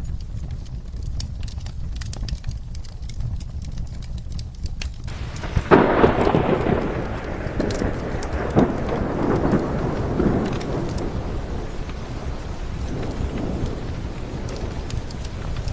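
Steady rain with a fire crackling in sharp scattered pops. About six seconds in, a thunderclap breaks and rolls on, fading over several seconds.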